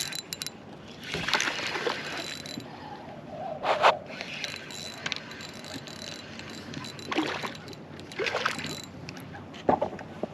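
Water splashing and sloshing beside a small boat in irregular bursts, the loudest about four seconds in.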